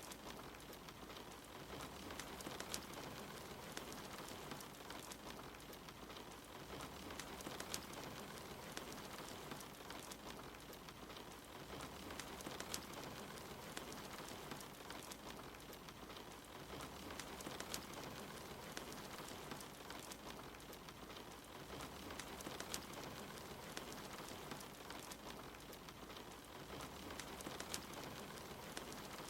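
Steady rain against a window, with a wood fire crackling and popping in sharp, scattered clicks. A faint low rumble swells about every five seconds underneath.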